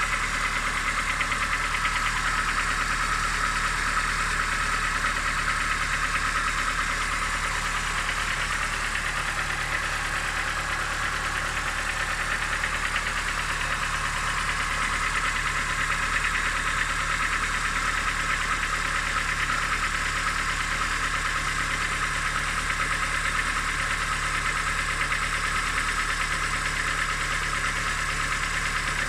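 An engine idling steadily with a rapid knocking. The owner does not know the cause of the knock and is asking what it is.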